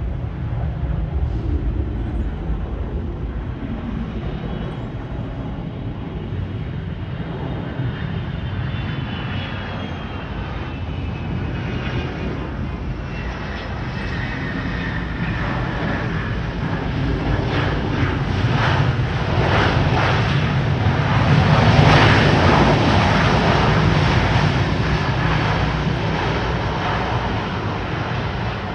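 Boeing 757 twin-turbofan jet passing, its engines rumbling with a whine that falls in pitch as it goes by. The noise swells to its loudest about three quarters of the way through, then eases slightly.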